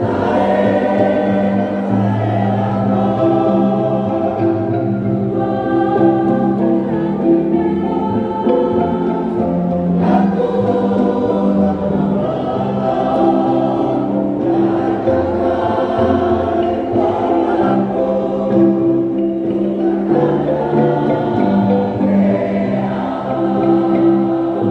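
Choir singing in several-part harmony, accompanied by a kolintang ensemble of wooden xylophones.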